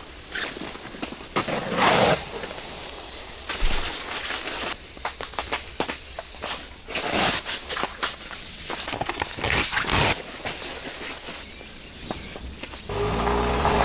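Irregular rustling, clicks and footsteps of someone handling camping gear outdoors, over a steady hiss. Near the end a small motor starts humming.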